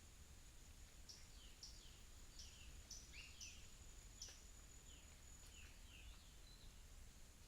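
Faint birds chirping, a quick run of short, falling chirps, over a thin steady high-pitched insect-like hum and a low background rumble.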